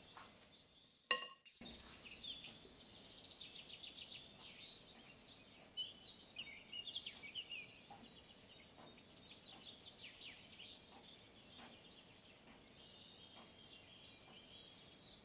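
Faint birdsong: quick chirps and rapid trills, busiest in the first half and sparser later. A single sharp click about a second in is the loudest event.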